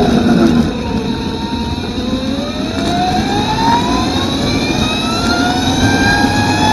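Electric superbike's motor whine, dipping in pitch at first and then rising steadily from about two seconds in as the bike accelerates, over a steady rushing noise.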